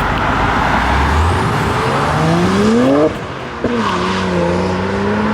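A car accelerating away with its engine note rising steadily, then a short break about three seconds in as it changes gear, after which the engine pulls again with its note climbing slowly.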